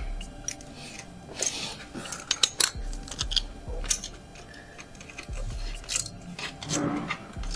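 Hand tools and metal bolts clinking and tapping in a scatter of short, sharp clicks, with brief rustling, as bolts are handled and started on their threads.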